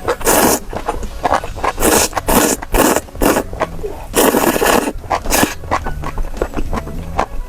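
Close-miked eating sounds as seafood is eaten: a dozen or so irregular short noisy bursts of mouth and shell noise.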